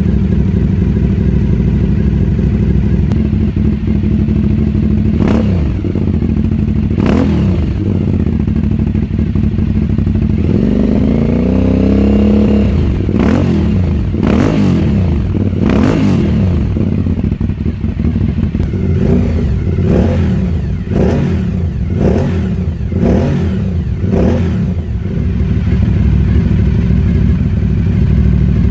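Aprilia Shiver 750's 90-degree V-twin engine running through an Akrapovic exhaust, idling with short sharp throttle blips. Around ten seconds in it revs up more slowly and falls back, then gives a quick run of blips near the end.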